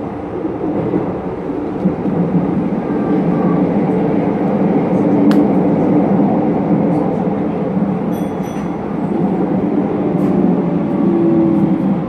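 Hokuso 9100-series electric train running at speed, heard from inside the car: a steady rumble of wheels on rail with motor tones. There is a brief high ringing about eight seconds in.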